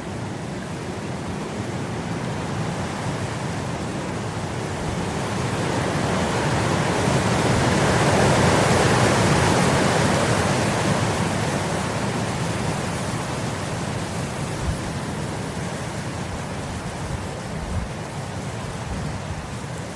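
Wind blowing across grass: a gust builds to its loudest about halfway through, then eases off. Two short low thumps come in the second half.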